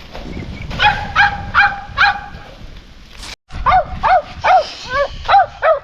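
A small dog barking in quick, high-pitched yaps, about two or three a second, in two runs with a brief break a little past halfway.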